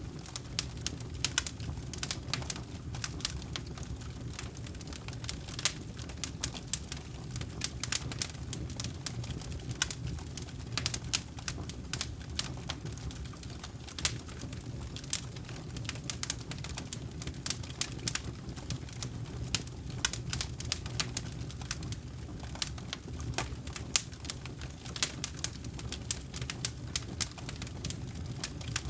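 Wood campfire crackling, with irregular sharp pops several times a second over a steady low rumble.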